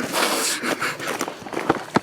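A brief rush of rustling, then a string of quick crackling knocks: something moving through dry brush and leaf litter.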